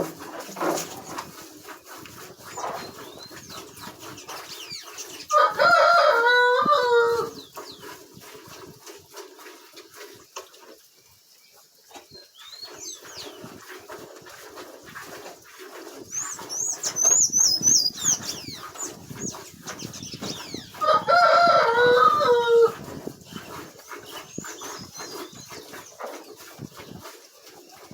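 A rooster crowing twice, each crow about two seconds long and falling in pitch at the end.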